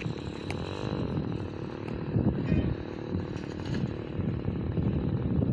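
Small engine of a homemade mini bike running under way, with rough low rumbling. Its pitch rises and falls briefly about a second in.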